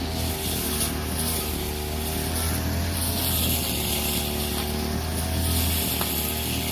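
Two-stroke brush cutter engine running steadily at working speed, with a hiss of the cutting head through grass.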